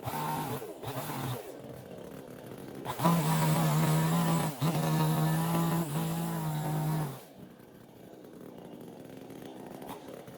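Chainsaw running: a lower, uneven engine note at first, then opened up about three seconds in and held at steady high revs for about four seconds, briefly dipping once. It then drops off to a much quieter background.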